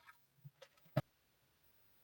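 A couple of faint knocks followed by one short, sharp click about a second in, in a quiet room.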